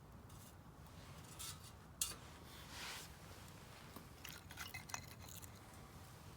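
Wood fire crackling in a Solo Stove Campfire fire pit: scattered sharp pops, the loudest about two seconds in, a quick run of pops a little later, and brief hissing swells.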